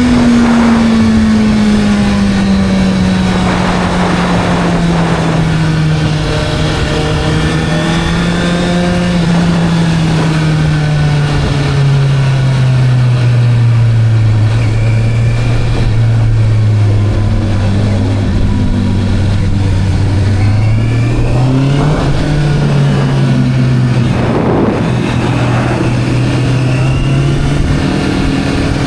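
Motorcycle engine running continuously, its pitch falling slowly and steadily for about fifteen seconds as it slows, then rising quickly about three-quarters of the way through and holding a steady note.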